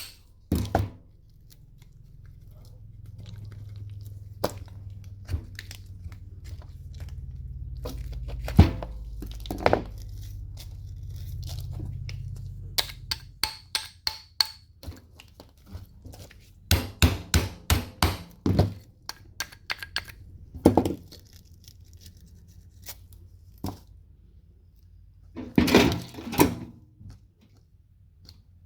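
Irregular sharp knocks and clicks of metal parts and tools while a microwave oven is taken apart, with a low rumble through the first half.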